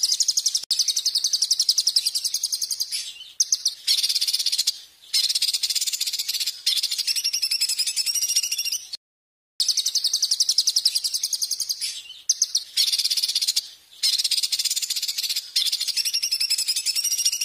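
Songbird song recording: long, rapid, buzzy high-pitched trills in phrases of a few seconds, broken by short pauses and one sudden cut to silence about nine seconds in.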